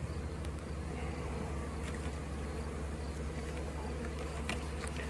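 Honeybees buzzing in a steady hum, with a few faint light clicks.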